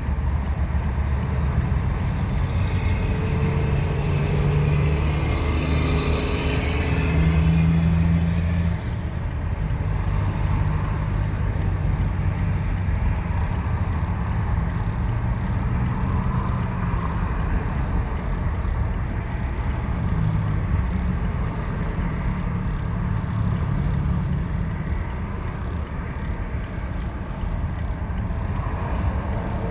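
Heavy truck engines running and moving, a steady low drone whose pitch shifts as the vehicles go by.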